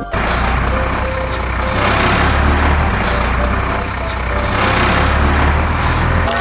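Heavy truck engine running with a deep steady rumble, swelling louder twice.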